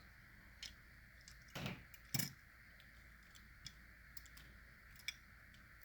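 A few faint, scattered clicks and light taps, typical of a small diecast model car being handled and turned over in the hands; the two clearest taps come about one and a half and two seconds in.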